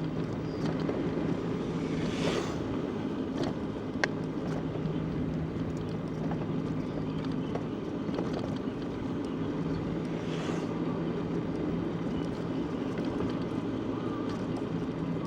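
A steady motor hum over wind and rolling noise, with a sharp click about four seconds in.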